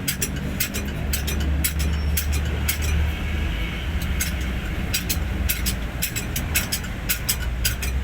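Hino 500 truck's diesel engine running with a steady low hum, with many irregular sharp metallic clicks over it.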